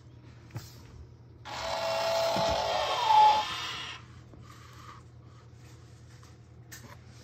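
Toy dump truck's built-in electronic sound effect playing through its small speaker, a noisy, tinny burst lasting about two and a half seconds from about a second and a half in, with a short rising tone near its end. A small click comes before it.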